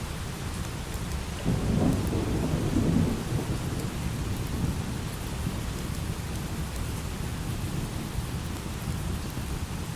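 Steady light rain with a roll of thunder that starts about a second and a half in, peaks briefly and rumbles away over the next couple of seconds.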